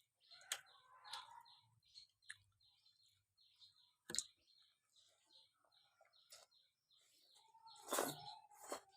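Faint, regular high chirping, about two to three chirps a second, with scattered sharp clicks and a louder clatter of knocks near the end.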